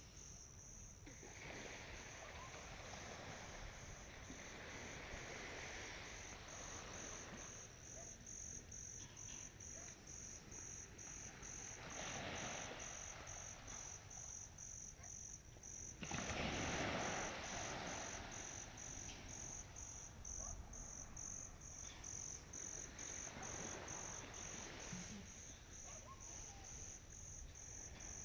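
Crickets chirping in a steady, even pulse, with the wash of ocean waves on the shore swelling in and fading several times, the biggest wave about 17 seconds in.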